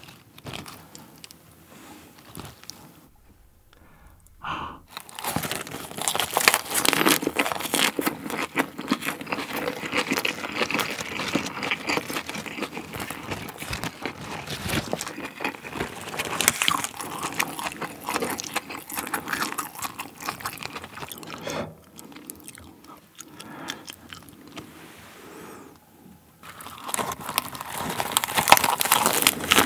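Close-miked chewing and crunching of a lettuce wrap filled with rice and spicy pork bulgogi, the crisp crunch of the fresh leaf dominating. After a quieter start the chewing runs dense and steady, eases off for a few seconds in the low twenties, and comes back loud near the end as a fresh wrap goes in.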